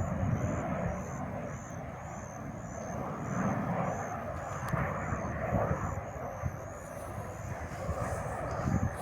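Jet aircraft engine noise from a passing military jet, a steady rushing sound with low rumble that swells and dips.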